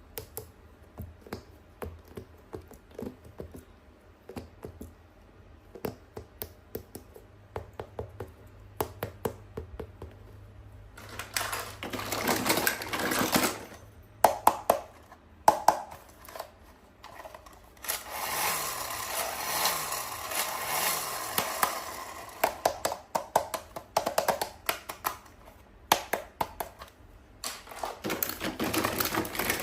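Hands unboxing a toy: a long series of small clicks and taps on packaging, broken by three longer stretches of crinkling and rustling, one about a third of the way in, one in the middle and one near the end.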